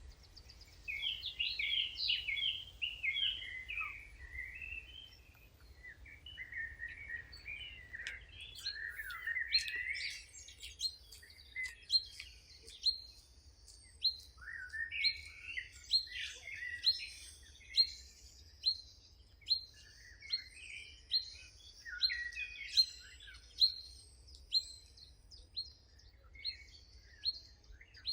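Songbirds chirping and singing, several calls overlapping. From about halfway through, one bird repeats a short, sharp note about once a second.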